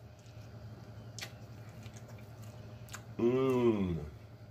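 Close-miked chewing of a burger, with scattered wet mouth clicks and smacks over a steady low hum. About three seconds in, a hummed 'mmm' of enjoyment that rises and falls in pitch for under a second.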